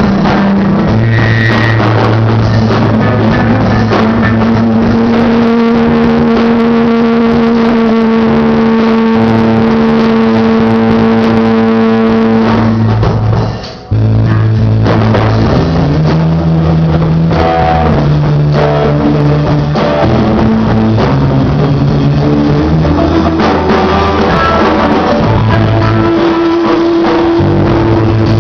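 Rock band playing live: drum kit and guitar, with long held notes and a brief break about halfway through.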